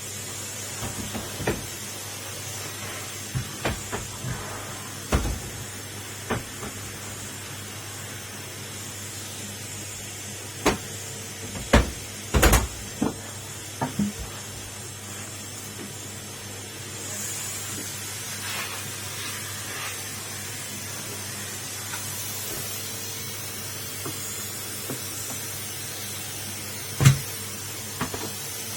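Numatic Henry vacuum cleaner running with a steady hum and hiss, broken by irregular clicks and knocks. The knocks come in a cluster about halfway through and once more, loudly, near the end.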